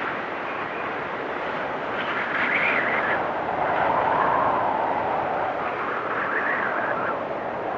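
Blizzard wind blowing in gusts: a steady rush with a whistling howl that swells and fades, about 2 seconds in, again around 4 seconds and once more near the end.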